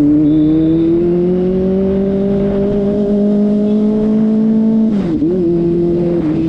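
Kawasaki ZX-25RR's 250 cc inline-four engine pulling under throttle, its pitch climbing slowly, then a quick gear change about five seconds in, after which it holds steady at slightly lower revs.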